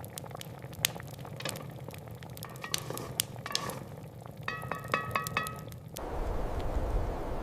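Kitchen sounds of food being cooked and served: scattered sharp clicks and clinks of utensils against dishes, with a short run of ringing clinks just before five seconds in. About six seconds in this gives way to a steady low rumble.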